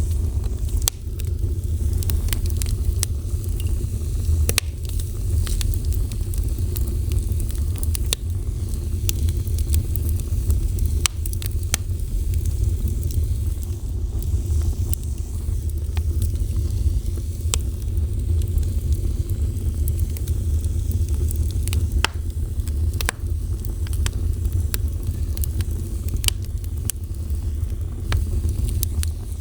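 Fire burning, with a steady low rumble and many irregular sharp crackles and pops.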